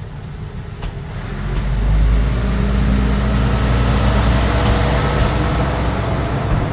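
Diesel railcar engine running, growing louder about a second and a half in and then holding a steady low rumble with a hum.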